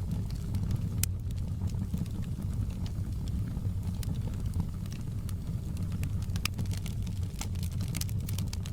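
Wood fire in a fireplace: a steady low rumble of burning logs with scattered sharp crackles and pops.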